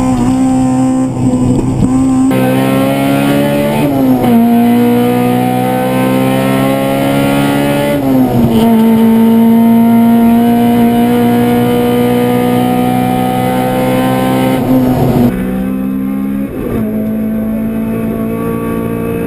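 Honda VTEC four-cylinder rally car engines heard from inside the cabin, pulling hard through the gears. The pitch climbs steadily in each gear and drops at each upshift, several times over, with a couple of abrupt cuts between different cars.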